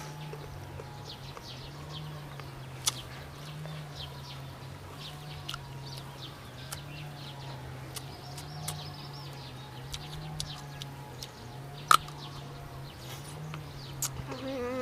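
Crisp green mango being bitten and chewed: scattered sharp crunches and mouth clicks, one louder snap about twelve seconds in, over a steady low hum.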